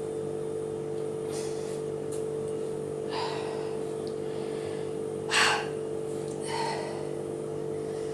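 A woman breathing hard while exercising: short, sharp breaths and gasps every second or two, the loudest about five seconds in, over a steady low hum.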